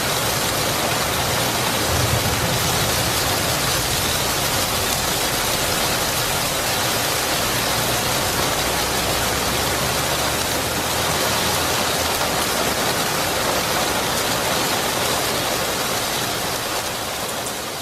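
Steady, dense rainfall, with a low rumble of distant thunder about two seconds in; the rain begins to fade out near the end.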